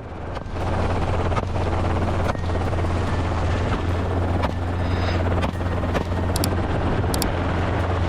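Helicopter in flight, its rotor and engine running with a steady low drone.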